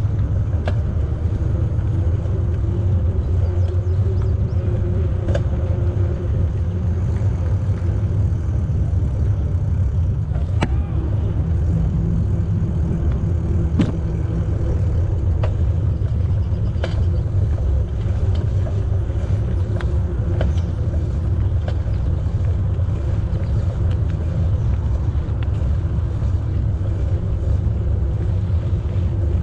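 Steady low wind rumble over the microphone of a camera riding on a moving bicycle, with tyre noise on the path and occasional sharp clicks.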